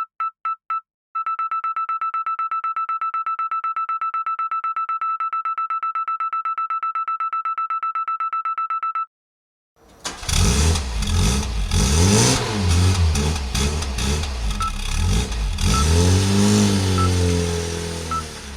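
Electronic toy truck's reverse-warning beeper: a few separate beeps, then a rapid, steady string of high electronic beeps for about eight seconds. After a short gap, a louder, noisier electronic sound with clicks and swooping low tones starts and fades toward the end.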